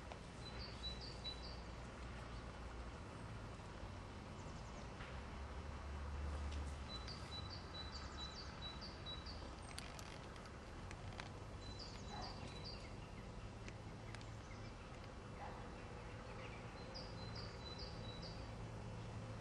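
A small songbird singing a short phrase of four to seven quick, high, repeated notes, four times over, against a faint low background rumble.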